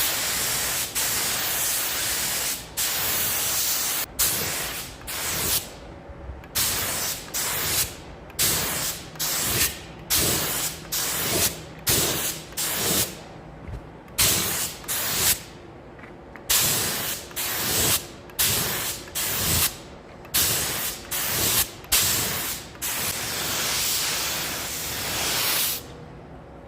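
Paint spray gun hissing in repeated short bursts of about a second each as the trigger is pulled and released, with longer passes at the start and near the end.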